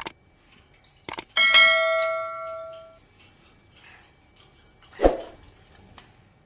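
A metallic object struck once, ringing like a small bell for about a second and a half. Around it come short bird calls: a brief rising chirp just before the ring and a single louder call near the end.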